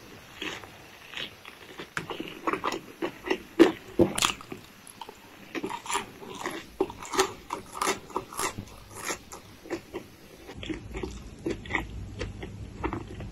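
Close-miked chewing of crispy breaded chicken: irregular crunches and wet mouth clicks, loudest about four seconds in and lighter near the end.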